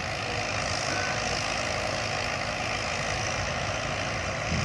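Diesel dump truck engine running steadily, a low engine hum under broad mechanical noise.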